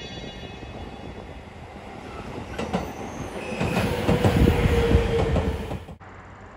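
A train running close by, getting louder, with wheels clacking over rail joints and a steady whine near its loudest. It cuts off suddenly about six seconds in.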